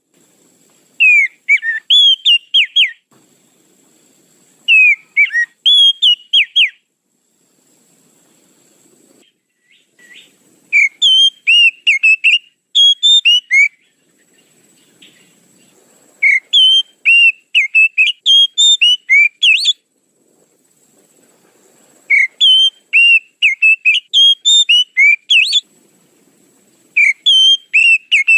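Oriental magpie-robin (kacer) song: phrases of quick, clear whistled notes sweeping up and down, each lasting a few seconds, repeated with pauses of a few seconds between them.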